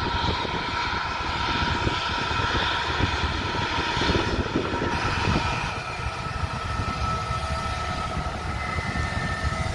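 Jet airliner's engines running at low power as it taxis: a steady whine of several tones over a low rumble.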